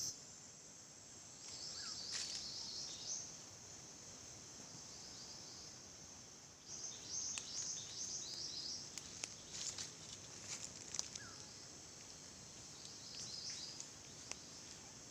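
Faint outdoor forest ambience with three bouts of rapid, high-pitched chirping from small wild creatures: near the start, about seven seconds in, and near the end. A few sharp clicks fall in the middle.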